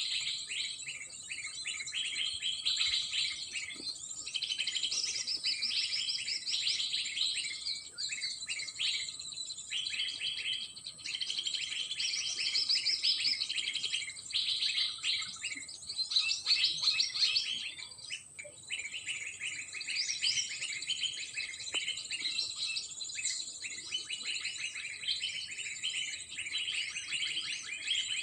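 Small birds chirping and twittering in quick runs of notes, almost without a break, over a steady high insect drone.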